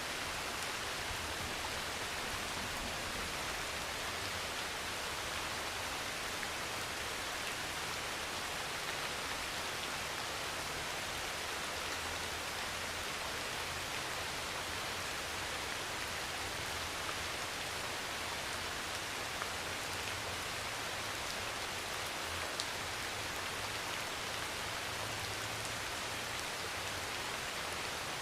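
Heavy rain pouring steadily on a thin metal roof, an even hiss with a few single louder drop ticks.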